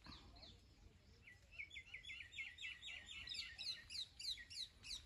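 A bird singing faintly: a quick run of short repeated notes, about five a second, climbing steadily in pitch for over three seconds.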